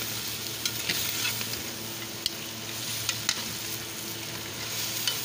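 Chicken feet sizzling in oil with onion paste in a stainless steel pan while a metal spoon stirs them, clicking and scraping against the pan several times.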